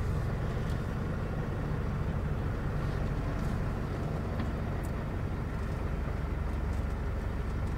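MAN truck's 180-horsepower diesel engine idling steadily, with an even, fast low pulse.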